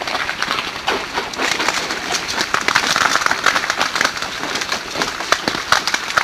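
Glaze ice cracking and shattering: a dense run of sharp ticks and cracks, busiest around the middle.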